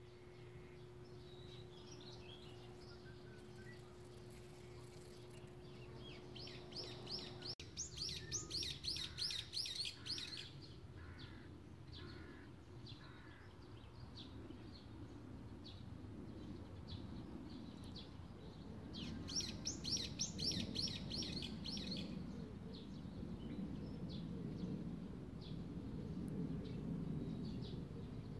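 Small birds chirping, with scattered single notes and two spells of rapid, repeated trilled notes, one about eight seconds in and another about twenty seconds in, over a low, steady background noise. A faint steady hum sounds for the first seven seconds or so, then stops abruptly.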